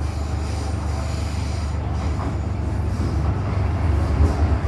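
MTR M-Train running along the track, heard from inside the car: a steady low rumble of wheels and running gear with faint high tones above it, growing slightly louder near the end.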